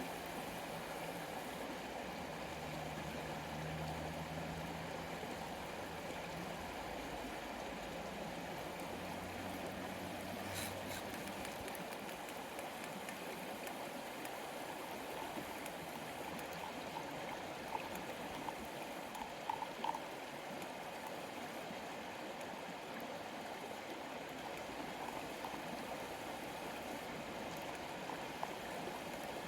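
A river flowing steadily with an even rushing sound. There is a single sharp click about ten seconds in and a few small ticks later on. A faint low hum lies under the water for the first ten seconds or so.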